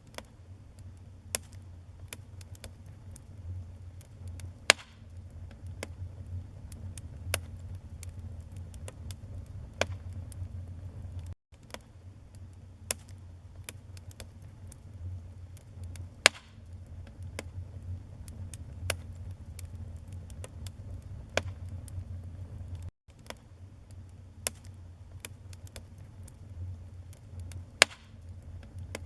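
Wood fire burning in a fireplace: a steady low rumble of flames with constant small crackles and a few much louder, sharp pops of the burning logs. The sound cuts out briefly twice.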